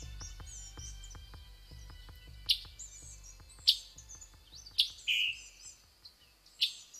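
Bird chirping in short, sharp calls about once a second, over background music with a steady beat that fades out near the end.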